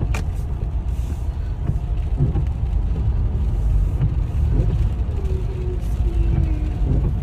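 Steady low rumble of a car, with a sharp click right at the start.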